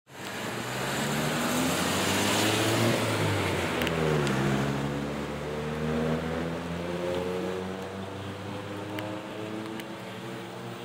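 A car engine accelerating through the gears, with road noise. Its pitch climbs, drops at a gear change about four seconds in, then climbs more slowly again.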